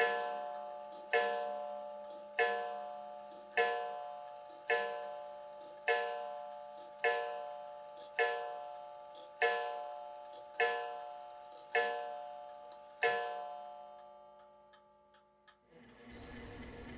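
A clock striking twelve: twelve evenly spaced ringing chimes, about one every 1.2 seconds, each fading before the next. A steady hiss comes in near the end.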